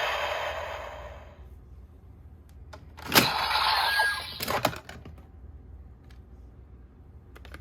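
Sharp plastic clicks from a toy being handled, a few scattered over several seconds, with a short noisy burst between the clicks about three seconds in.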